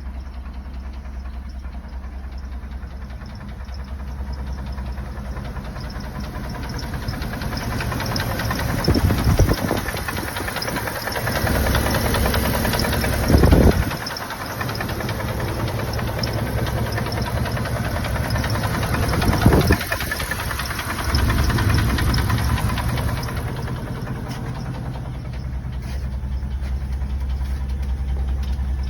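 A 1995 Dodge Ram 2500's 5.9-litre Magnum V8 gasoline engine is running with a knock, which the owner takes for piston slap. It is revved briefly a few times, about 9, 13 and 19 seconds in, between stretches of steady running.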